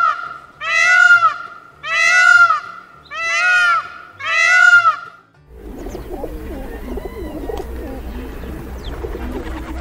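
Four loud calls about a second apart, each rising and falling in pitch, over a held tone and soft music. About halfway in these give way to soft low bird calls over a steady rumbling background.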